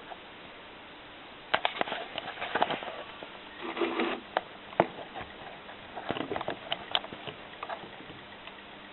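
Scattered small clicks, taps and rustles over a faint steady hum, with a short breathy rush about four seconds in.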